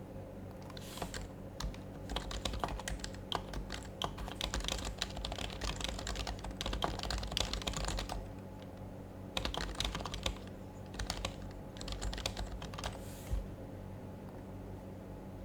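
Typing on an HHKB Professional HYBRID Type-S keyboard, its silenced Topre switches giving soft, quick runs of keystrokes. The typing pauses for about a second midway, resumes in a second burst, and stops a couple of seconds before the end.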